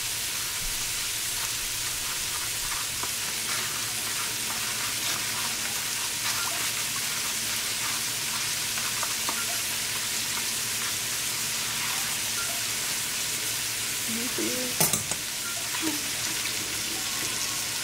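Diced onions, celery and bell peppers sautéing in butter in a skillet: a steady sizzle, with one sharp knock about 15 seconds in.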